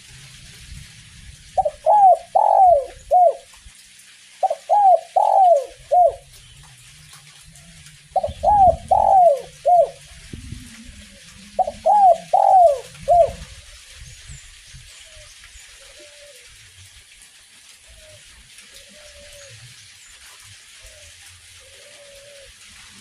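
Spotted dove (derkuku) cooing: four loud phrases of three to four falling coos, about three seconds apart, then fainter coos after about 14 seconds. A steady hiss of light drizzle runs underneath.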